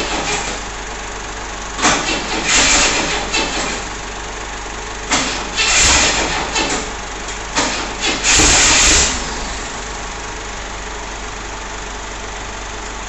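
The freshly reconditioned straight-six engine of a 1964 Ford Falcon being cranked during its first start. It fires in several short, loud bursts over a steady running noise without settling into a clean idle.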